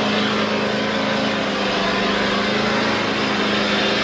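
Lifted off-road 4x4's engine running at steady revs under load as it crawls up a steep muddy hill.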